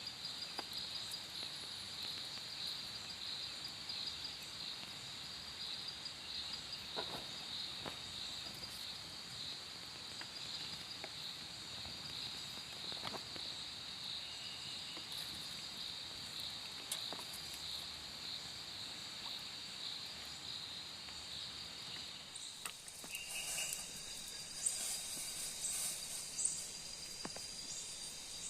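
Night insects, cricket-like, chirping in a steady high-pitched pulsing drone, with a second, higher-pitched insect joining in near the end. Faint scattered clicks sound now and then.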